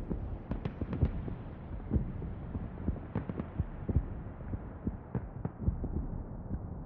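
Muffled low rumble with irregular thumps and cracks, growing steadily duller.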